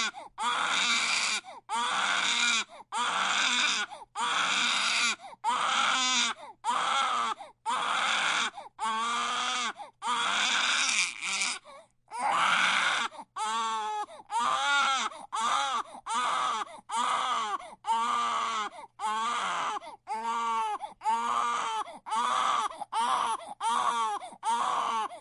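Infant crying hard: a long run of wailing cries, each rising and falling in pitch, with a quick breath between them. About halfway through there is a short pause, after which the cries come shorter and faster.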